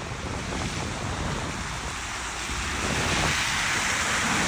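Steady rushing of wind over the microphone, mixed with the hiss of wet road and rain, while riding a scooter in the rain. It grows louder about three seconds in.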